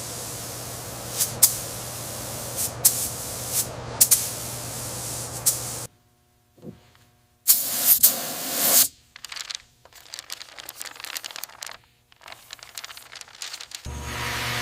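Paint being sprayed: several short hisses of spray over a steady low hum. After an abrupt drop to quiet about six seconds in comes a longer spray hiss of about a second, followed by faint, irregular crackling.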